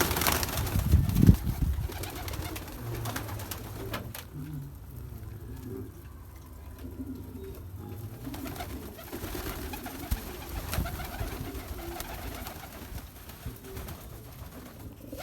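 Domestic pigeons cooing repeatedly, with a louder scuffling noise in the first second or so.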